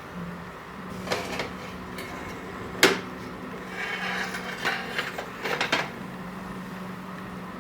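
Parts of a GM tilt steering column being handled and pulled apart by hand: a few light knocks, one sharp knock about three seconds in, then rubbing and scraping and a quick run of clicks, over a steady low hum.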